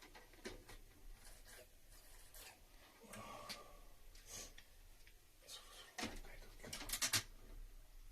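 Scattered light clicks and knocks of tools and parts being handled, with a quick run of sharper clicks about seven seconds in.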